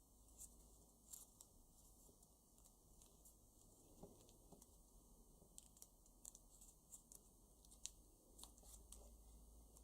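Faint, irregular crackles and clicks of a paper banknote being creased and folded by hand.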